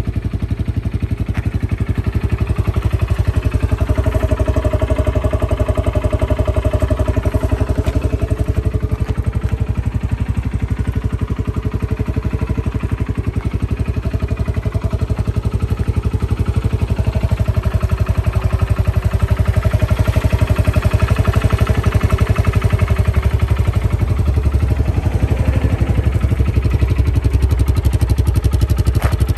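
Kawasaki 300cc ATV's single-cylinder four-stroke engine idling steadily with an even, fast exhaust pulse. The seller describes the engine as in good running order.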